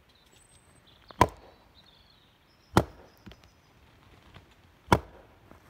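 Three sharp wooden knocks, about one and a half to two seconds apart, typical of a stick struck against a tree trunk in tree knocking.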